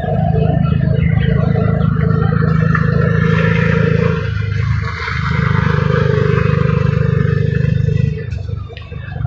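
A passing goods train: a loud, steady low rumble that dips briefly about halfway through and again near the end.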